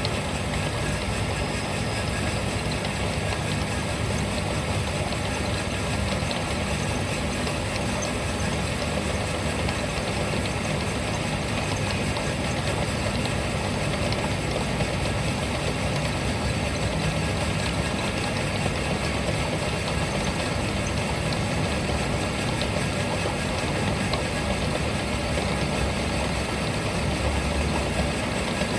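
An engine running steadily at idle, an even low drone with no changes.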